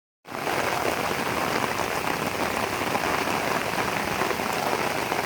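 Steady rain falling on floodwater, a dense even patter that starts abruptly a moment in.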